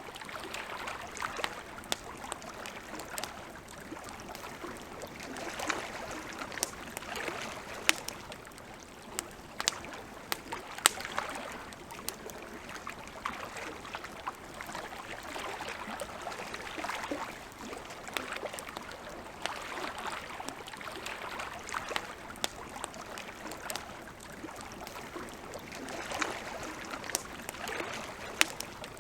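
Campfire crackling, with frequent sharp pops and snaps of burning wood, over a soft wash of lake water lapping that swells and fades every few seconds.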